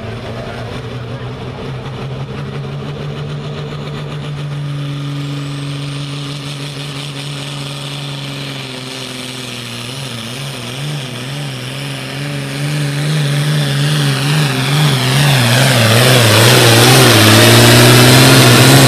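A pulling tractor's engine runs hard under load. It holds steady at first, then about halfway through its pitch begins to waver up and down, a couple of times a second. It grows louder toward a peak near the end.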